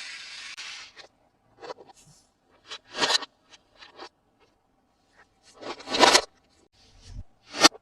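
Toy packaging being handled and opened: a string of short scraping, crinkling and tearing sounds, the longest and loudest about six seconds in.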